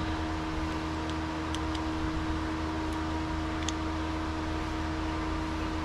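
Steady fan-like hum with a constant droning tone over a hiss, with a few faint light ticks.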